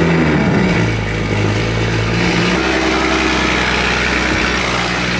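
2020 Toyota Supra's B58 turbocharged inline-six, fitted with a Tomei exhaust, running at a fast cold-start idle just after firing up, super loud. The idle speed steps down about a second in and again about halfway through as the engine settles.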